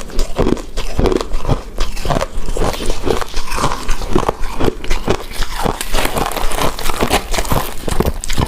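Close-miked chewing of a chewy rice cake coated in shredded coconut: quick, irregular mouth clicks, several a second.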